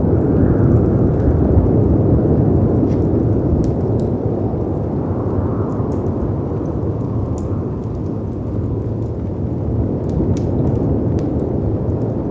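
A low, dense rush of wind and sea surf that swells and eases, with faint scattered crackles and pops from a wood fire.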